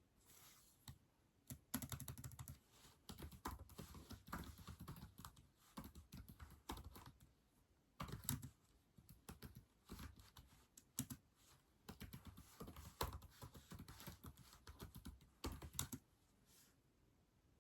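Typing on a keyboard: runs of quick key clicks with short pauses between them, starting after a second or so and stopping about a second and a half before the end.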